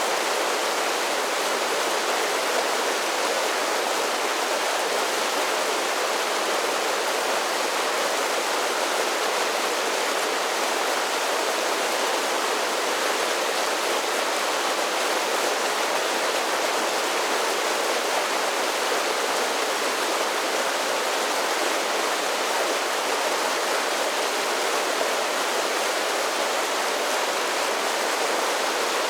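Mountain creek splashing down a series of small waterfalls: a steady, even rush of water that does not change.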